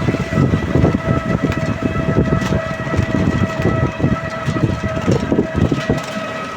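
Wind buffeting the microphone in uneven gusts, with a steady droning tone that holds one pitch throughout.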